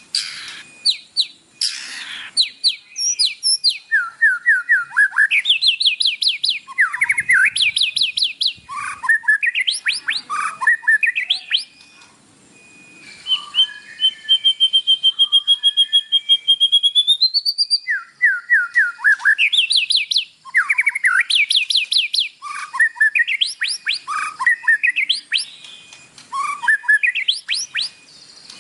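White-rumped shama (murai batu) singing: loud phrases of rapid, repeated upward-sweeping notes, with short pauses between phrases. About halfway through comes a long, fast trill of some four seconds that rises in pitch near its end.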